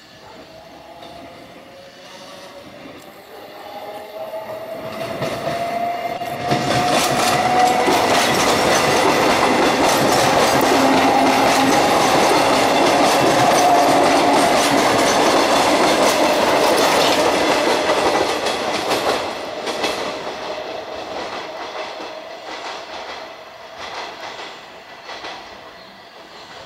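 Electric commuter train pulling away and passing close by. Its whine rises in pitch as it gathers speed, then the wheels clatter over the rail joints as the cars go past. The sound fades away as the train recedes.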